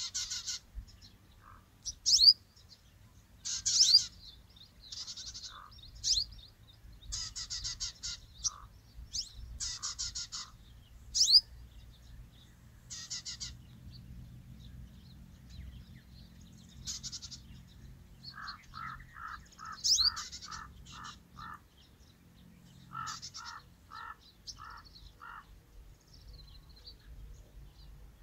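Wild birds calling: many short high chirps and quick rising calls, with two runs of short, evenly spaced lower notes at about four a second in the second half, over a faint low rumble.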